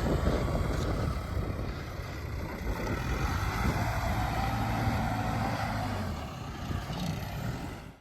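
Excavator's diesel engine running steadily under work.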